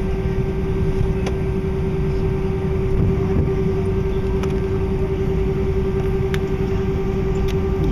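Airbus A319 cabin noise while taxiing: a steady low rumble from the engines and air system, with a constant mid-pitched hum and a few faint ticks.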